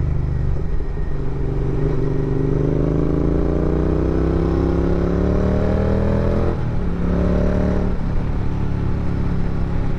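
Royal Enfield Interceptor 650's parallel-twin engine under way, its revs climbing steadily for several seconds and then dropping suddenly about six and a half seconds in, like a gear change. The revs climb again briefly and drop once more near the eight-second mark.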